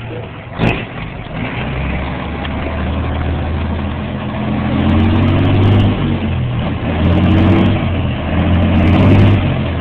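Heavy Mack truck's diesel engine pulling hard, its note climbing and dropping back several times as it accelerates, growing louder.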